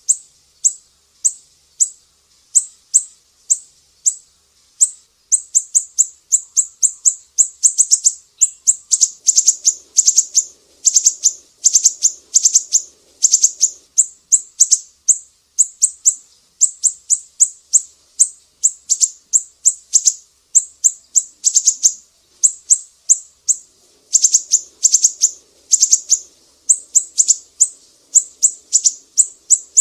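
Sumatran siri-siri songbird singing: a long run of short, sharp, high chirps, several a second, crowding into quick trills in places. A faint low hum sits beneath the song twice, about a third of the way in and again near the end.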